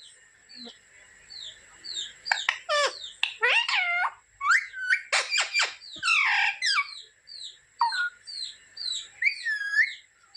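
Pet parrot chirping: a run of short, high, falling chirps about twice a second, broken in the middle by a burst of louder, fuller squawking calls.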